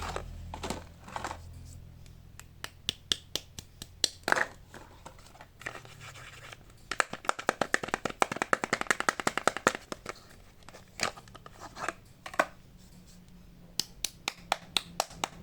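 Close-up hand sounds of soap bars and their packaging being handled: scattered sharp taps and scratches, with a dense, fast run of tapping and scratching about seven to ten seconds in.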